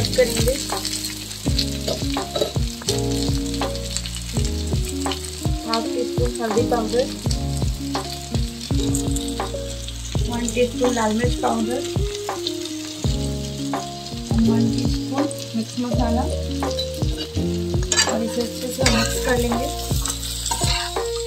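Potato and cauliflower sizzling in hot oil in a non-stick kadhai while a metal spatula stirs and scrapes them, with repeated short clicks of the spatula against the pan.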